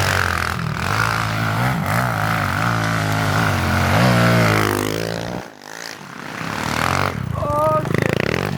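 Pit bike engine revving, its pitch rising and falling. It drops away briefly about five and a half seconds in, then builds again.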